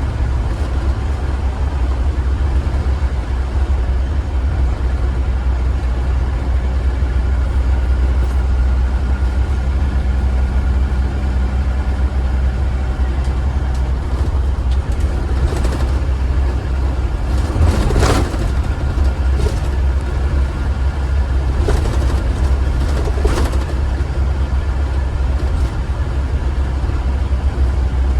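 Blue Bird Vision school bus under way, its engine running with a steady deep drone heard from inside the bus. A few brief, sharp noises stand out over it about halfway through and again a little later.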